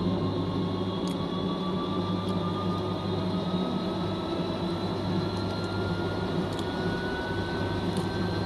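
Fisher & Paykel MW059 top-loading washing machine spinning, its direct-drive motor giving a steady hum and a high whine that rises slowly in pitch as the drum speeds up, with a few faint ticks.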